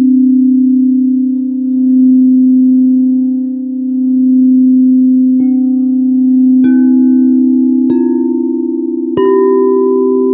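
Singing bowls: a steady low ringing hum that swells and fades slowly, then four bowls struck in turn about a second and a bit apart, each adding a higher ringing tone that rings on over the others.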